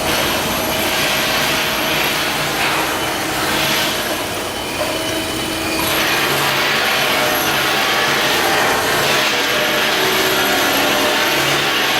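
Steady loud shipyard work noise from machinery and power tools: a dense hiss with a thin high whine over it. The noise shifts about six seconds in.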